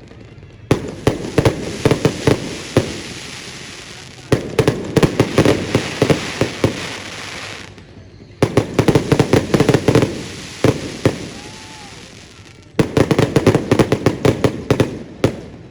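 Fireworks going off in four volleys about four seconds apart. Each volley is a rapid string of sharp cracks that fades into a hiss before the next one starts.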